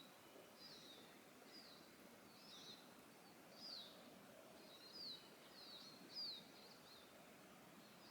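Faint bird calls in woodland: short, high chirps that slide downward, repeated about once a second over a quiet steady hiss.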